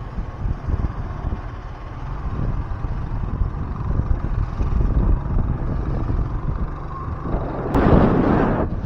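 Steady low rumble of road, engine and wind noise on an action camera riding a two-wheeler through city traffic, with a louder rushing noise near the end.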